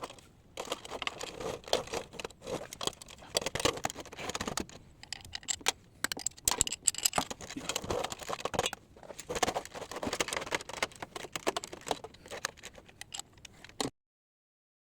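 Spanner clinking and scraping on the oil pump bolts as they are backed out inside the oil pan: many small irregular metallic clicks and rattles, cutting off suddenly near the end.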